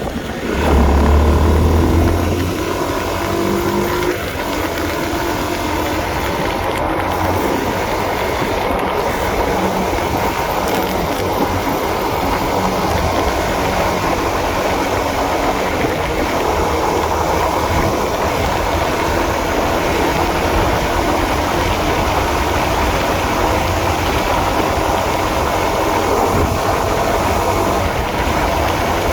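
Honda CB150R's single-cylinder engine running under way, mixed with a steady rush of wind and road noise. A louder low rumble comes in the first couple of seconds.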